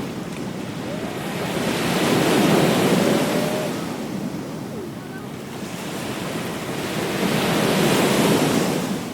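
Ocean waves breaking and washing up a beach: two swells of surf, one building to a peak about two to three seconds in and one near the end.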